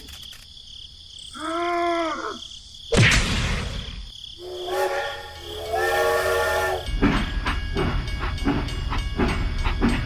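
Steam train whistle: a short blast that rises and falls in pitch, a burst of steam hiss about three seconds in, then two steady blasts. About seven seconds in, a low engine starts up and keeps running with a rough knock.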